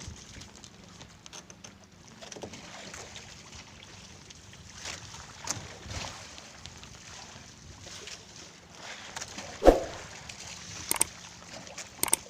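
Scattered knocks and thumps of handling on a small wooden fishing boat, over a faint steady hum and a light wash of water and wind; one sharp, loud knock comes about ten seconds in, and a few smaller ones near the end.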